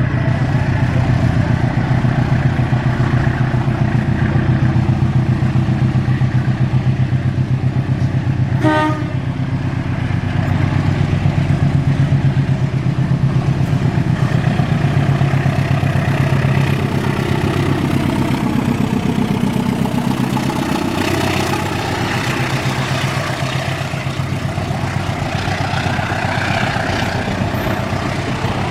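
Diesel locomotive engine running steadily with a fast, even throb. A brief tone sounds about nine seconds in, and the engine note shifts in the second half.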